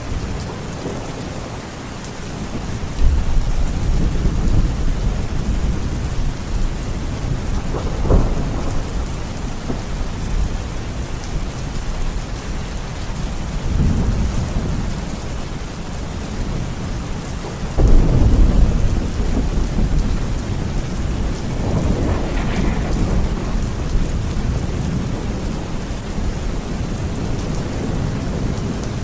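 Steady heavy rain with rolling thunder: several low rumbles swell and fade over the rain, with a sharper crack about eight seconds in and the loudest rumble a little past halfway.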